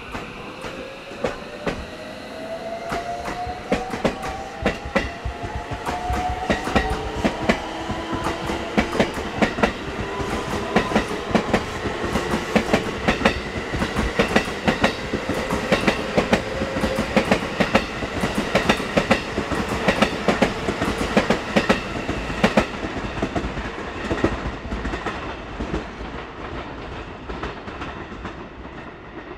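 Electric train running past at speed. Its motors give a whine that rises in pitch for the first several seconds, and the wheels keep up a fast clickety-clack over the rail joints.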